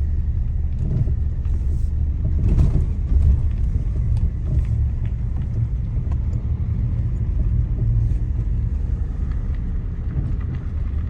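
Loud, steady low rumble that starts abruptly and continues without a break.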